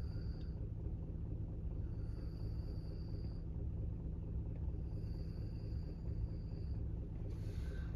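Vehicle engine idling, a steady low rumble and hum heard from inside the cab.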